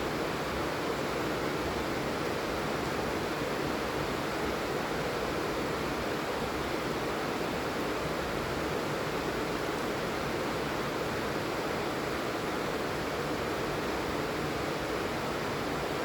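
Steady rain falling, an even hiss with no distinct drops or pauses.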